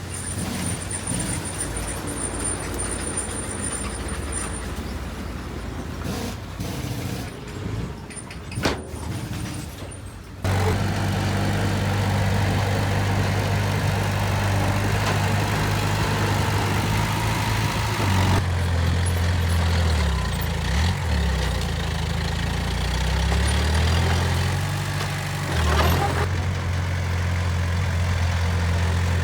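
Heavy diesel engine of earthmoving machinery running. About a third of the way in it abruptly gets much louder and steadier, and near the middle and end its pitch dips and rises as the engine is throttled.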